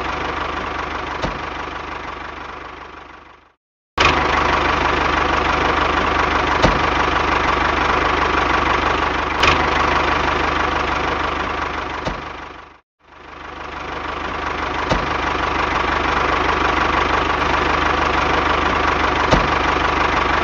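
A small engine running steadily at idle, with a few faint clicks. It fades out twice, about three and a half seconds in and again about thirteen seconds in, and comes back abruptly each time.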